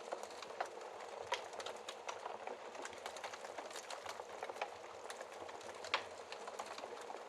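Wood fire crackling in a fireplace: a steady hiss with frequent small snaps and pops, and two louder pops, one about a second in and one near the end.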